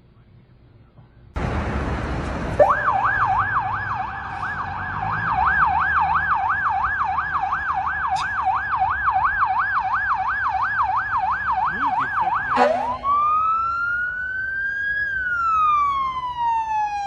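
Emergency vehicle siren, starting about two seconds in after a brief rush of noise. It sounds first in a fast yelp, warbling up and down about two and a half times a second, then switches to a slow wail that rises and falls once before cutting off abruptly.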